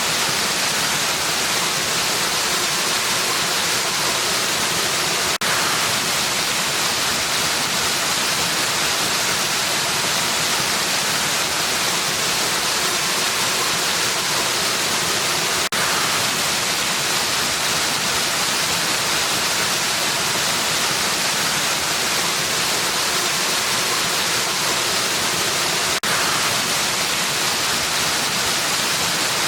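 Waterfall pouring in a steady, even rush of water with a bright hiss and no change in level. A faint tick is heard about every ten seconds.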